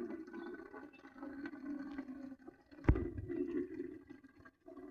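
Water running from a water tank's tap into a watering can, with a single sharp knock a little under three seconds in.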